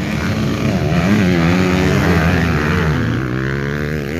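Dirt bike engine revving, its pitch rising and falling continuously.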